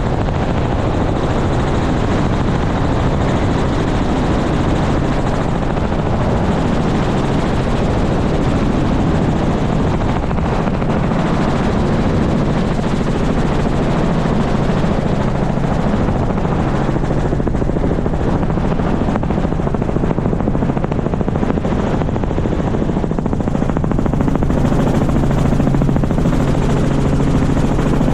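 Helicopter running steadily: a dense whir of engine and rotor with a constant low hum, growing a little louder near the end.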